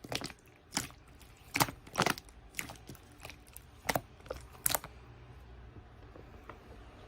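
Slime being squeezed and poked by hand, giving a string of sharp, irregular snaps and crackles that stop about five seconds in.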